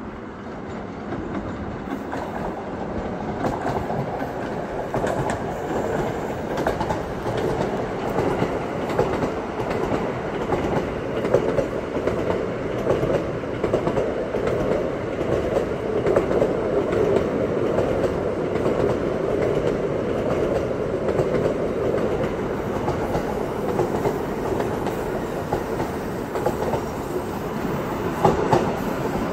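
LNER Azuma passenger train running past, a steady rumble of wheels on rail that builds about two seconds in, with frequent clicks of wheels passing over rail joints.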